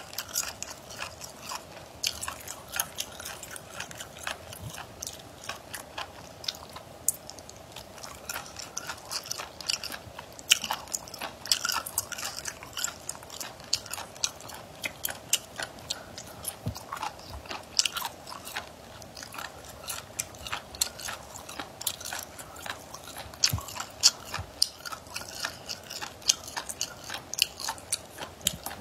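A person chewing and biting food close to a lapel microphone: a dense, irregular run of wet crunchy clicks and smacks, with a faint steady hum underneath.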